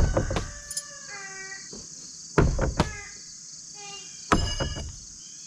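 Three sharp thunks, about two seconds apart, of thrown blades striking a wooden target. Crickets chirr steadily behind them, and a chicken calls briefly between the strikes.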